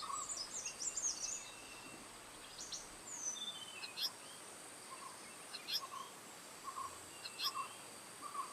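Blue-eared kingfishers calling: a quick run of shrill, high chirps in the first second or so, then single sharp high calls about every one and a half to two seconds. A steady high insect whine runs underneath.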